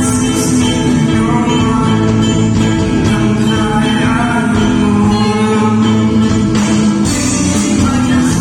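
Live gospel music: a band with guitar and percussion playing steadily, with some singing, and cymbal crashes about a second before the start and about seven seconds in.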